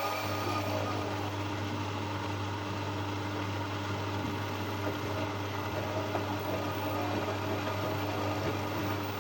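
Siemens iQdrive washing-machine motor running at a steady speed with a constant hum, the noise the owner finds louder than usual during normal drum rotation.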